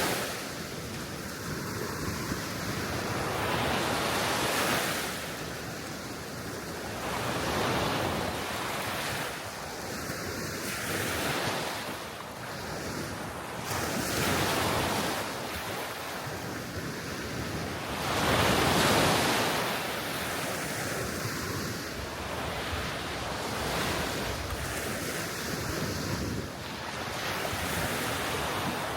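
Small waves breaking on a sea shore, washing in and out every few seconds, with wind blowing across the microphone.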